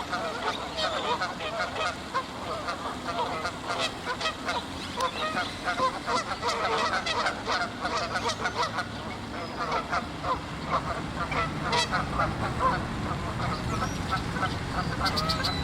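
A flock of Canada geese honking constantly and over one another during a fight, many calls overlapping.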